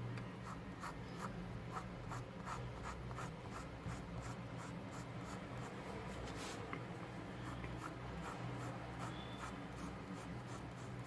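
Graphite pencil drawing thin, curved shading lines on paper in short repeated strokes, about three a second, over a steady low hum.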